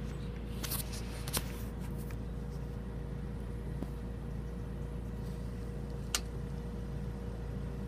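Steady low engine rumble, like a vehicle idling, with a faint steady hum over it and a few sharp clicks, the clearest about a second and a half in and again about six seconds in.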